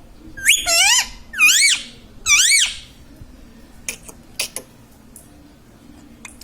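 Indian ringneck parakeet giving three loud, shrill calls in quick succession, each rising and then falling in pitch, followed a little later by a few short faint chirps.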